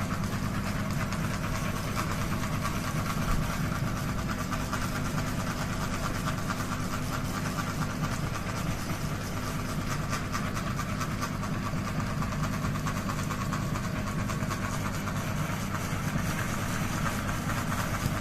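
Ceiling fan running with a wobble in its rotation: a steady hum under a fast, continuous rattle of ticks.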